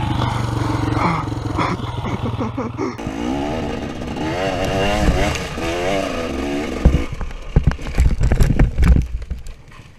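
Dirt bike engine running, then revving up and down repeatedly; about seven seconds in a run of loud thumps and clatter as the bike crashes, after which the engine sound stops.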